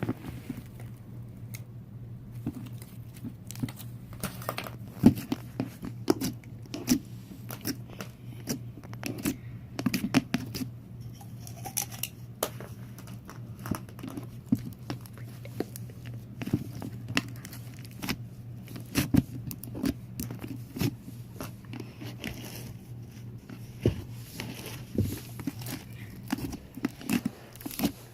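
Slime being squeezed, stretched and poked by hand, making a string of irregular sticky clicks, pops and crackles, with a low steady hum underneath.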